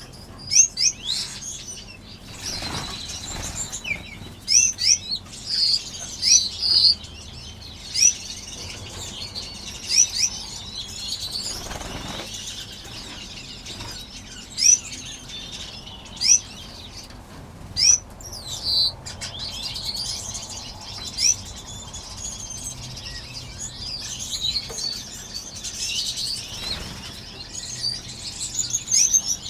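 A crowded aviary of small finches calling over and over with short, high chirps, with their wings fluttering as birds fly about, in a few louder flurries.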